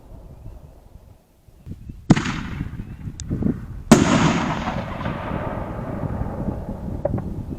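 5-inch canister firework shells going off: two loud bangs about two seconds apart, the second the loudest, followed by a long rumbling echo that slowly dies away.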